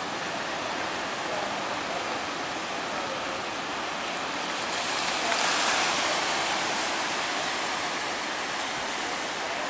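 Ocean surf at a river mouth, a steady rush of waves with one wave breaking louder a little past halfway through.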